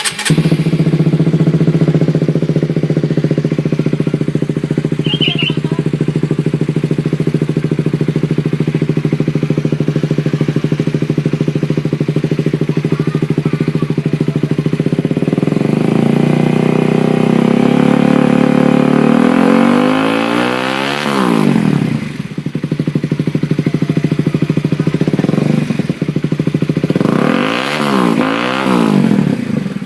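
Honda CBR (K45) motorcycle engine running through an aftermarket SC-Project exhaust. It idles steadily, then climbs slowly in revs to a peak about three-quarters of the way through and drops back. Two quick throttle blips follow near the end.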